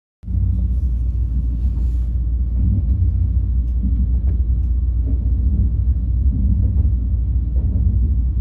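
Steady low rumble of a KTX train running at speed, heard from inside the passenger car; it starts abruptly about a quarter second in.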